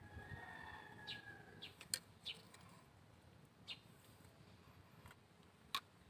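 Near silence, with a faint bird call held for about the first second and a half, then a few light clicks as brake pads are handled.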